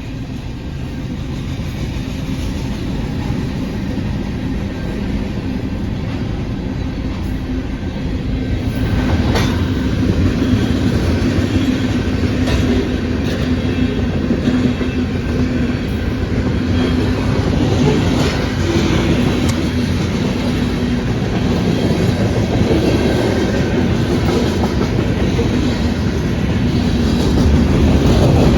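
Union Pacific mixed freight train rolling past: a steady rumble with wheels clacking over the rail joints and scattered sharp knocks. It grows louder over the first ten seconds or so, then holds loud.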